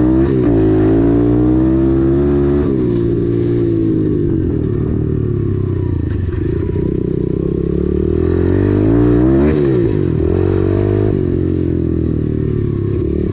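Dirt bike engine revving up and down as it is ridden along a trail, its pitch rising and falling several times as the rider works the throttle and gears. There is a sharp rev-up about nine seconds in that drops away about a second later.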